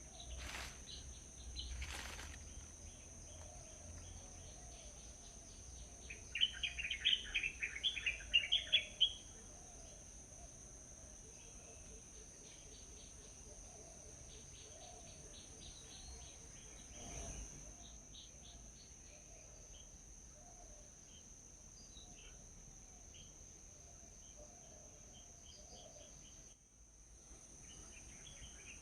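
Small birds chirping, with a loud burst of rapid, chattering high chirps lasting about three seconds, starting some six seconds in. Behind it run fainter scattered chirps and lower calls, over a steady high insect drone.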